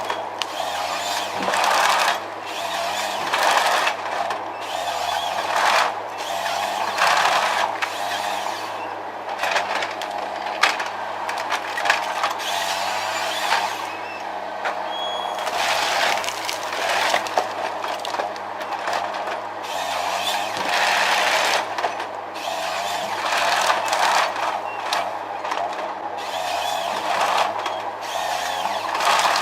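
Heavy tree-cutting machinery running under load: a steady engine hum with irregular louder surges of cutting noise every second or two.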